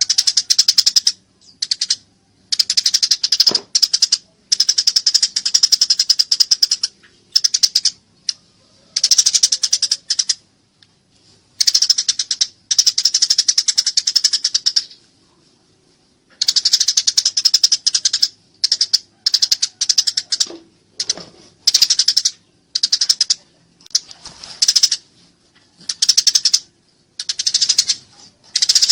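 Eurasian tree sparrow giving fighting calls: loud, rapid, high-pitched chattering in bursts of one to three seconds with short pauses between.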